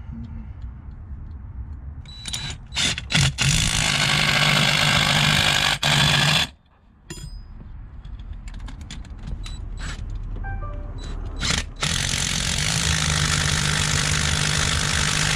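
Gasless flux-core wire-feed (MIG) welding: the arc sizzles in two long runs, the first about two and a half seconds in after a few short strikes, the second starting near twelve seconds. It is welded without shielding gas, which the welder expects to leave an ugly bead.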